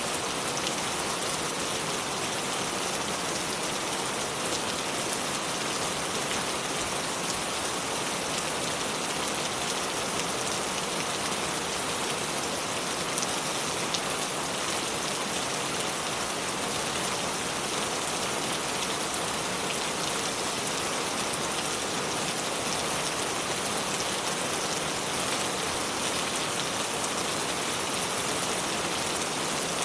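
Continuous water ambience: an even, unbroken hiss of water with a fine crackle throughout, holding a steady level.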